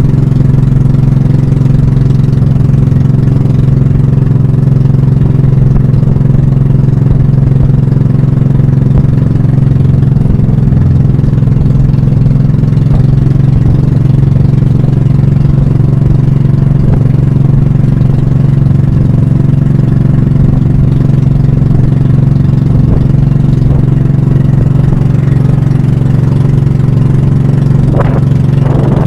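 Pump boat's small inboard engine running loudly and steadily, with a slight change in engine speed about eleven seconds in.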